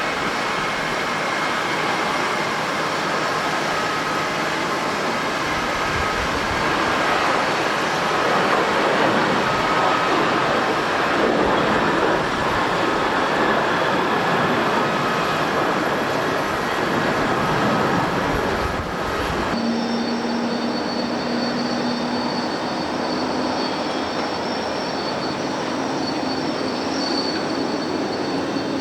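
Boeing 737-800 jet engines running at takeoff power, a broad steady roar that builds around the middle. About two-thirds of the way through, a sudden cut changes it to an Airbus A321neo's engines on approach: a lighter whine with steady high tones over a low hum.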